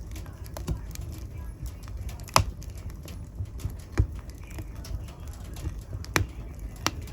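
Wood fire burning in a fireplace: a steady low rumble of flames with scattered crackles and a few louder sharp pops.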